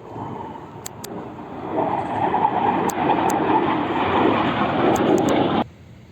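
Jet fighter engine roar as an aircraft flies past, a steady rushing noise that grows louder about two seconds in and then cuts off suddenly.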